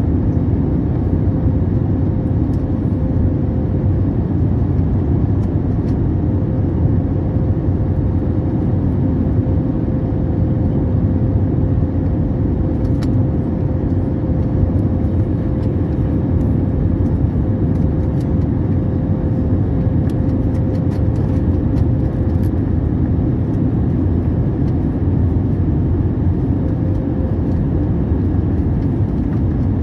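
Steady cabin noise of an Airbus airliner: an even rush of engine and airflow noise with a faint steady hum.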